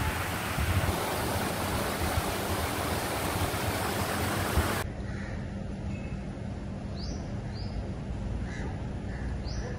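Heavy rain hissing steadily. About halfway through it cuts abruptly to a much quieter wet scene where birds call a few times with short chirps.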